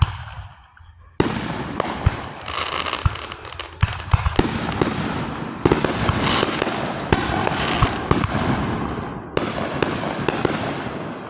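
Fireworks going off: a fading bang at the start, then from about a second in a dense barrage of sharp bangs over continuous crackling, which tails off near the end.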